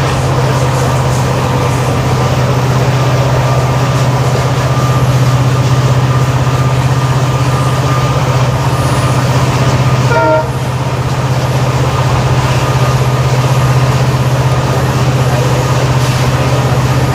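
WDP4D diesel locomotive's EMD two-stroke V16 engine humming steadily as it hauls the train, over running noise from the train. About ten seconds in, a short horn toot is heard.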